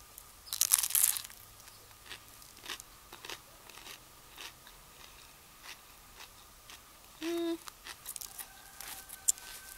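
A crunching bite into a Subway sandwich with Doritos on it, loudest about half a second to a second in. After that come quieter chewing sounds with small clicks, and a brief pitched note about seven seconds in.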